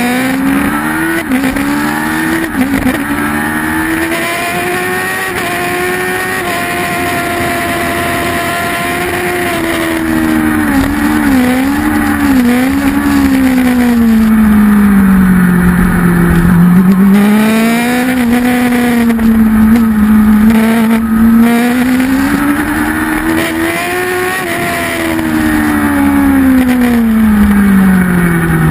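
Kawasaki ZX-10 superbike's inline-four engine at race pace, heard on board: the revs climb and fall again and again through gear changes and corners, with quick blips on downshifts about a third of the way in.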